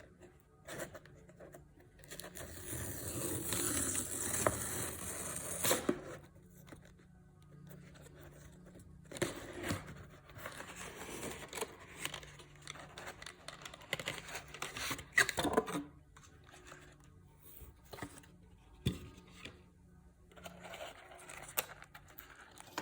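Product packaging being opened: a long tearing rip of a pull-strip or wrapper from about two seconds in, lasting about four seconds, then rustling, scraping and small clicks of cardboard and plastic being handled.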